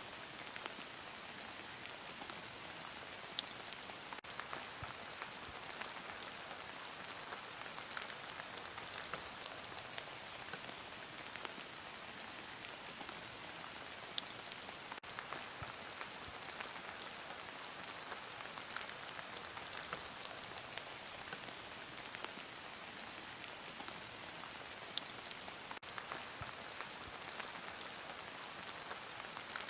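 Steady heavy rain: an even hiss of rainfall with many small drop ticks scattered through it.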